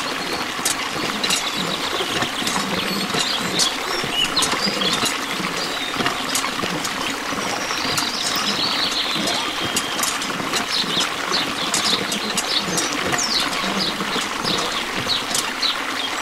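Thin stream of water from a miniature hand pump's spout pouring and splashing steadily into a small shallow pool of water, with many small droplet plinks.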